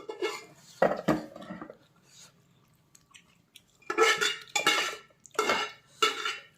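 Plates and cutlery clinking and being handled during a meal. The sound comes in short bursts: a couple about a second in, then a quiet gap, then a run of four bursts from about four seconds in.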